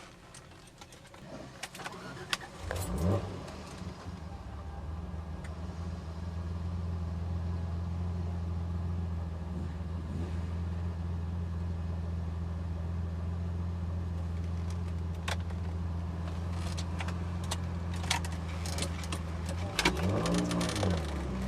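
Ford Sierra XR4x4 twin-turbo engine starting about three seconds in and settling into a steady idle, with a short blip of the throttle, rising and falling, near the end. Light clicks and rattles come from inside the car.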